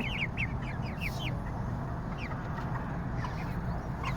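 Young parrot beak aseel chickens, about two months old, cheeping in quick high falling peeps, thickest in the first second and sparser after, over a steady low hum.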